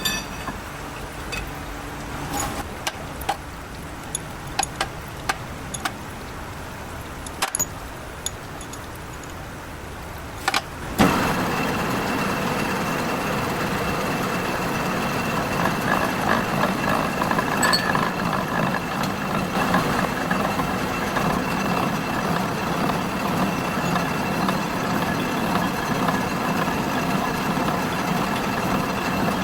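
Scattered metal clinks and knocks, then about eleven seconds in a workshop machine starts with a loud jolt and runs steadily with a faint high whine.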